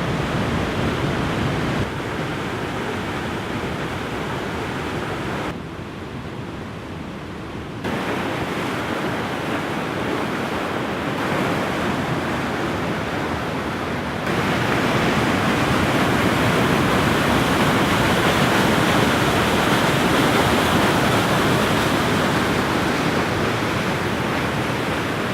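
Steady rushing roar of a waterfall. Its loudness shifts in steps a few times, dipping briefly and then growing louder from about halfway through.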